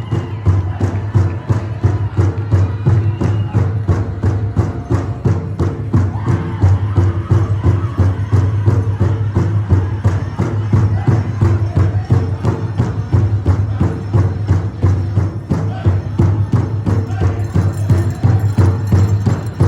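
Powwow drum group playing: a big drum struck in unison in a steady, fast beat, with singers' voices over it.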